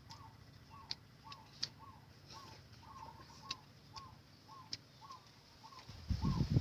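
A bird repeating a short call note about twice a second, with scattered sharp clicks between the notes. Near the end a louder, low, rough noise sets in.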